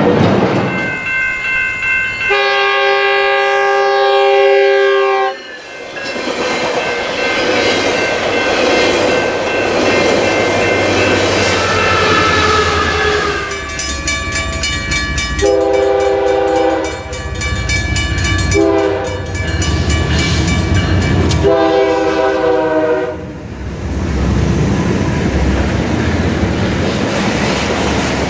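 Train's multi-note air horn sounding long, long, short, long, the standard grade-crossing signal, over the steady rumble and rapid clickety-clack of the train's wheels on the rails.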